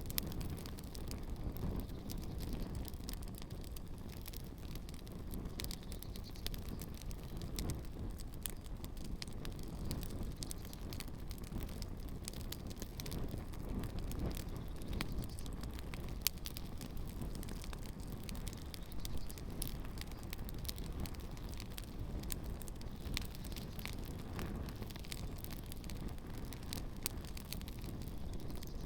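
Campfire burning with shoes in the flames: frequent small crackles and pops over a low, steady rumble, with a few sharper pops.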